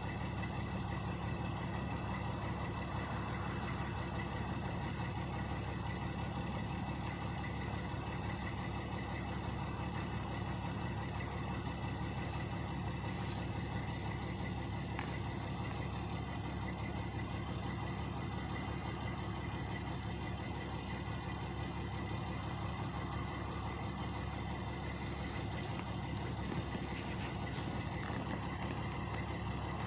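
Two trucks' engines idling, a steady unchanging drone. Brief high crackles come through about halfway and again near the end.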